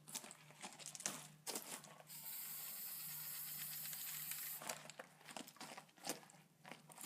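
Aerosol spray can of primer hissing in one steady spray lasting about two and a half seconds, starting about two seconds in, with light clicks and rustling handling noises before and after.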